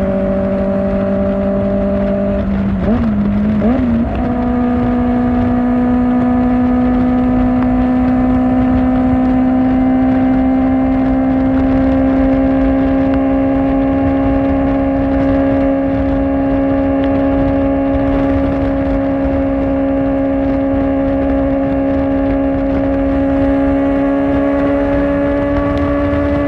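Kawasaki Ninja ZX-4R's 399 cc inline-four running through an Akrapovic exhaust at steady riding speed. The pitch wavers briefly about three seconds in, then holds steady and rises slowly as the bike gains speed, over low wind and road noise.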